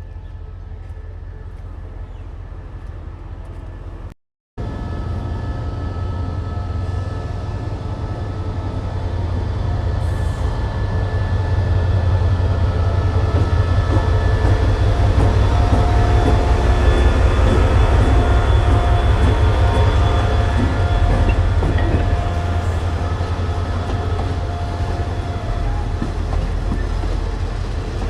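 Train running on the rails: a low rumble with steady whining tones above it, growing louder for several seconds, holding, then easing a little near the end. The sound cuts out for a moment about four seconds in.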